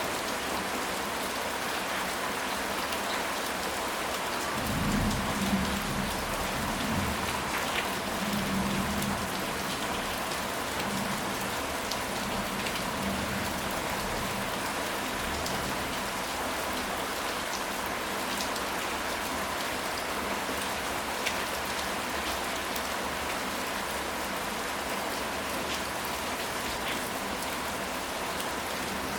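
Steady rain falling, with scattered drops ticking sharply, and a low rumble of distant thunder about five to nine seconds in.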